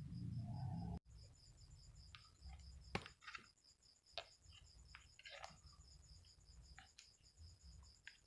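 Crickets or similar night insects chirping in rapid, even pulses, with scattered light clicks and knocks. A low rumble stops abruptly about a second in.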